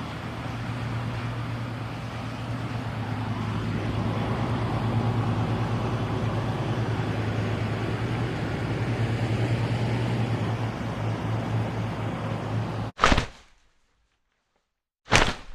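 A steady mechanical hum with a strong low tone, like a running engine, cuts off abruptly near the end. It is followed by a loud, sharp thud, and a second thud about two seconds later.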